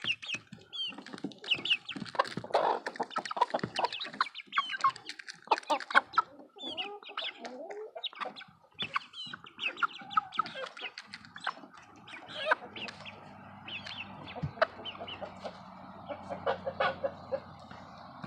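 Chickens clucking in many short calls, with a young rooster among them clucking like a hen. From about twelve seconds in, a steady low hum runs under the calls.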